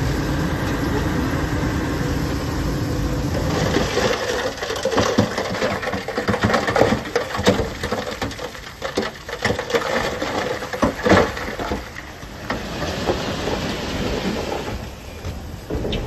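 Heavy earthmoving machinery with a diesel engine running steadily. About four seconds in, a long run of irregular metallic clanks and knocks starts, and it thins out after about twelve seconds.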